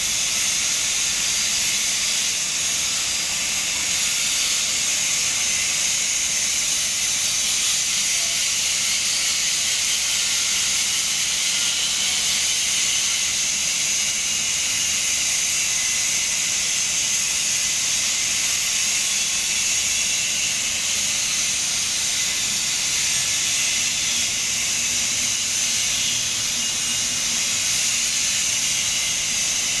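Electric arc welding: the arc hisses steadily and without a break.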